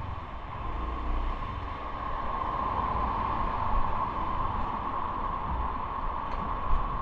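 Wind rushing over the microphone and tyre and road noise during a bike ride, a steady hiss with a low rumble underneath, growing a little louder after about two seconds.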